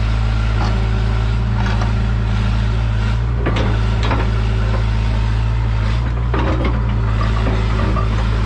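Hitachi EX100 excavator's diesel engine running steadily under work, with a few sharp cracks around the middle.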